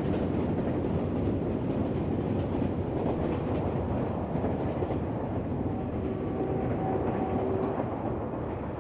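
QJ steam locomotive running on the rails, a steady rumble of wheels and running gear that slowly fades near the end. A faint steady tone sounds for a couple of seconds about six seconds in.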